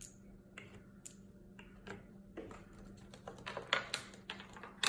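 Light, irregular clicks and taps of small hard objects being set down and knocked together on a hard surface, growing busier from about halfway through.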